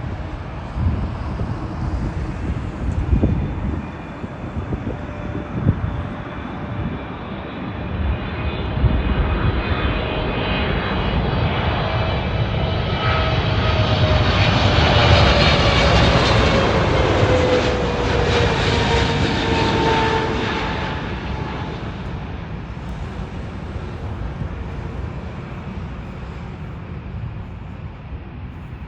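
A Boeing 777-200LR's GE90 jet engines on its landing pass. The engine noise builds to a peak with a whine that falls in pitch as the jet goes by, then fades away. There is low gusty rumbling in the first few seconds.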